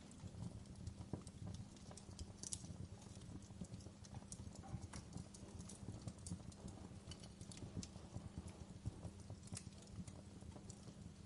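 Wood fire burning in a fireplace: irregular crackles and pops over a faint steady low rumble.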